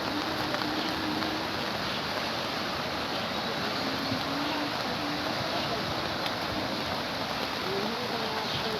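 Steady rushing of a river in flood, its fast floodwater making an even, unbroken noise, with faint voices in the background.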